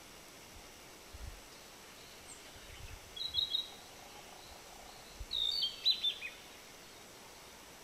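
Narcissus flycatcher calling over a steady background hiss: three quick high chirps about three seconds in, then a longer burst of high notes a couple of seconds later that drops in pitch at its end.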